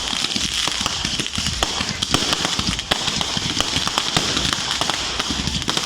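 Fireworks crackling and popping in a dense, irregular stream of small cracks over a steady hiss, with no single large bang standing out.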